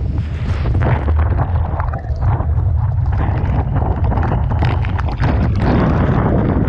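Typhoon-force wind buffeting the microphone with a heavy, continuous low rumble over rough, crashing sea. The surf swells louder about half a second in and again near the end, with scattered crackles through it.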